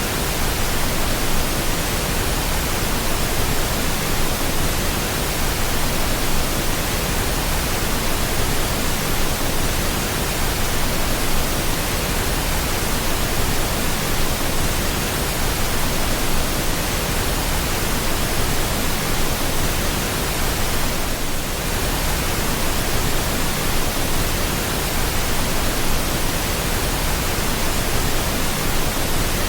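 Steady, unbroken pink noise: an even hiss spread across all pitches, used as a sleep sound for babies.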